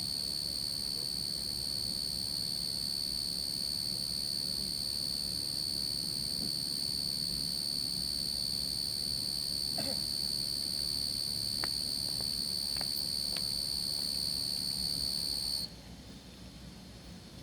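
A steady, high-pitched whistling tone that holds one pitch and cuts off suddenly near the end, with a few faint clicks in the quiet beneath it.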